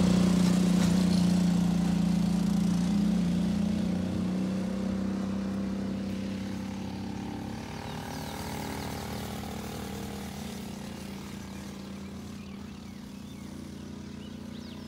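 Small mini-motorbike engine running at a steady pitch, gradually growing quieter.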